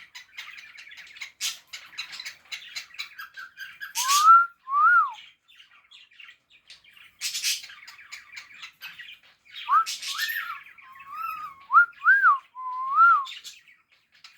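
Pet cockatiel chattering with a few harsh squawks, breaking into short whistled notes that rise and fall, a pair about four seconds in and a run of five or six from about ten to thirteen seconds.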